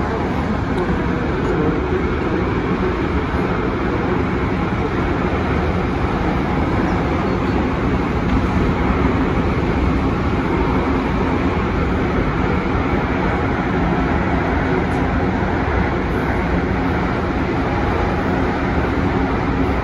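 MTR Tung Chung line A-train running at speed, heard from inside the car: a steady rumble of wheels on rail with a faint hum, unchanging throughout.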